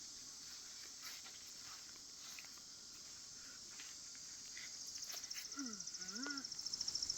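Insects chirring steadily outdoors: a high, fast-pulsing trill with no break, growing a little louder toward the end, with a few faint clicks and scuffs.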